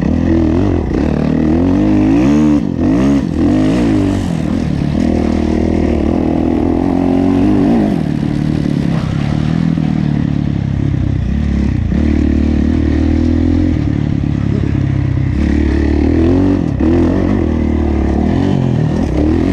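Kawasaki KX450F single-cylinder four-stroke motocross engine under race riding, revving up and falling back repeatedly. There are quick rises and drops in pitch about two to four seconds in.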